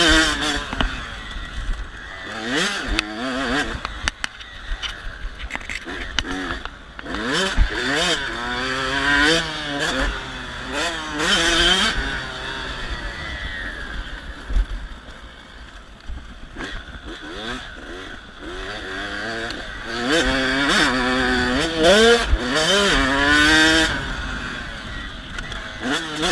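Two-stroke dirt bike engine, a KTM 85 SX, revving hard and shifting, its pitch climbing and dropping back again and again, quieter for several seconds midway.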